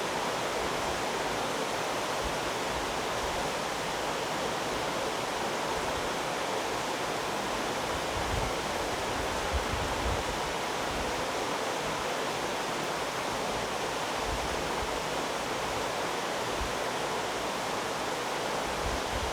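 Heavy rain pouring steadily, an even dense hiss, with a few brief low thumps about halfway through.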